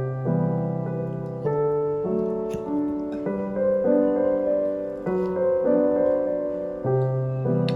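Background music: a gentle piano playing slow, sustained chords that change about once a second.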